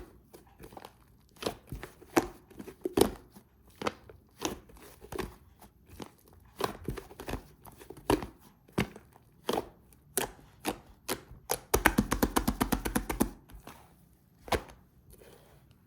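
Slime being pressed and poked by hand: irregular sticky clicks and pops, then a quick run of about ten pops a second for a second and a half, roughly two-thirds of the way through.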